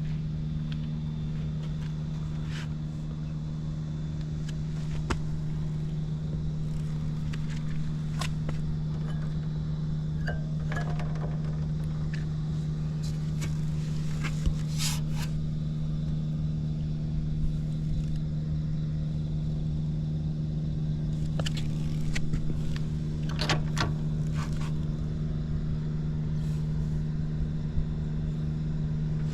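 Early Honda Andon Cub 70's four-stroke single-cylinder engine idling steadily, with a few light clicks over it. It runs evenly with no abnormal noise.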